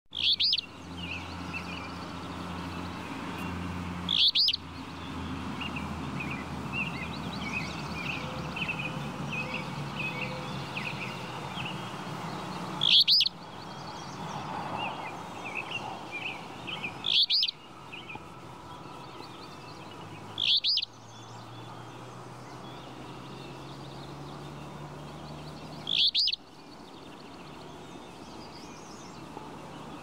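A flycatcher calling: six loud, short, high calls spaced several seconds apart, over softer twittering from other birds and a low steady hum.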